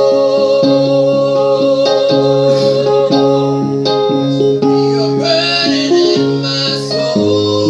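Live worship music: guitar and keyboard playing chords, with one long held note over them for the first few seconds.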